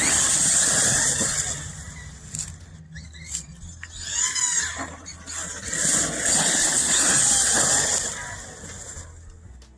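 CEN Reeper 1/7-scale electric RC monster truck driving hard on dirt. There are two loud surges of high motor whine and tyre noise as it accelerates, near the start and again from about six to eight seconds in, with a shorter rising whine about four seconds in.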